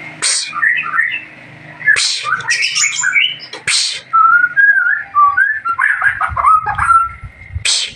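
White-rumped shama singing vigorously: a fast, varied run of loud whistled phrases broken by four short, sharp, harsh notes.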